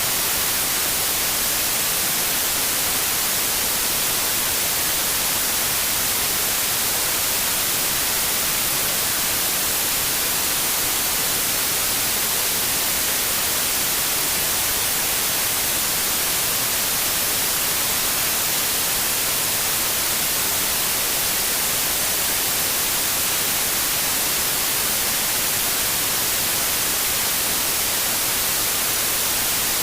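Steady white noise: an even, unbroken hiss, brightest in the high frequencies, with no change in level.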